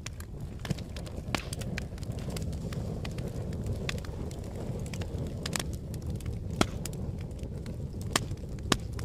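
Fire crackling: a steady low rumble of flames with irregular sharp pops and snaps scattered throughout, the loudest a little past halfway and near the end.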